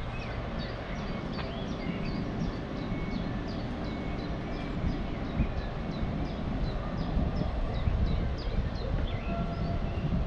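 Electric multiple unit standing at the platform, giving off a low, steady rumble. Over it a bird chirps repeatedly in short, high, falling notes, about two or three a second.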